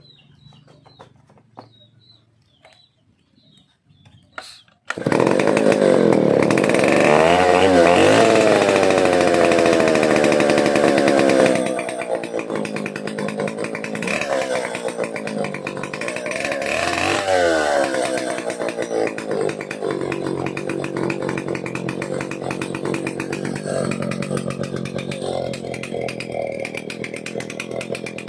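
Vintage Stihl 070 AV two-stroke chainsaw starting up about five seconds in after a sharp click, revving up and down twice, then running on steadily and somewhat quieter for the rest.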